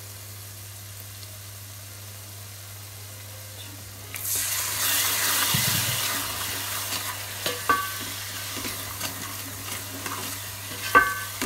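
Spice masala frying in oil in a steel pot, stirred with a wooden spoon. About four seconds in, a sudden loud sizzle as a little water hits the hot oil, slowly dying down, with the spoon knocking against the pot twice.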